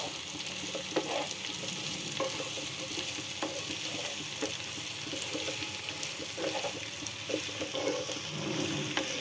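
Sliced vegetables sizzling in hot oil in a kadhai while a wooden spatula stirs them, with scattered light knocks and scrapes of the spatula against the pan.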